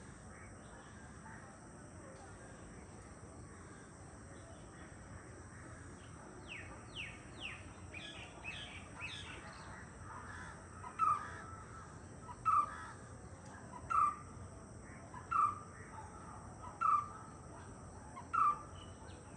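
White-cheeked barbet calling: from about halfway through, a loud call note is repeated six times, evenly spaced about a second and a half apart. Before it, several thin, quick falling calls, with a faint steady high hiss throughout.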